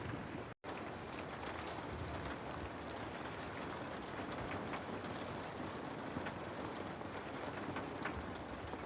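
Steady rain ambience: an even hiss of rainfall with scattered small drop ticks. About half a second in, the sound cuts out completely for a split second, then resumes.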